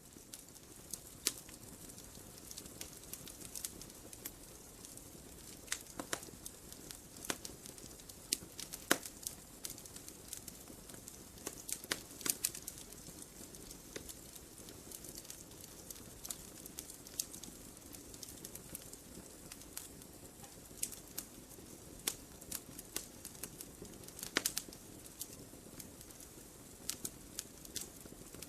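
Burning firewood crackling: irregular sharp pops and snaps, a few much louder than the rest, over a steady low hiss of the flames.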